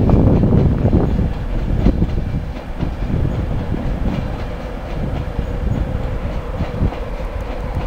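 East Coast InterCity 225 train of Mark 4 coaches moving along the far platform line: a heavy rumble of wheels on rail with clickety-clack over the joints. It is loudest at first and eases after about a second and a half, leaving a steady hum under the rolling.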